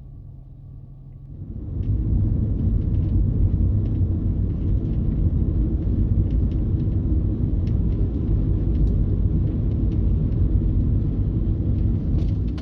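Car on the move, heard from inside: a loud, steady low rumble of road and wind noise that comes up suddenly about a second and a half in, with faint scattered ticks above it.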